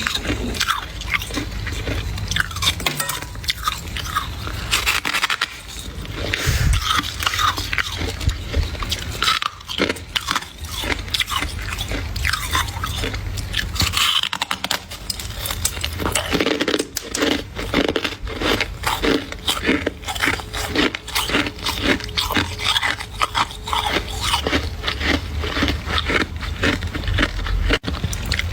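Slabs of ice crunching and cracking in a long run of crisp crunches, packed more tightly in the second half.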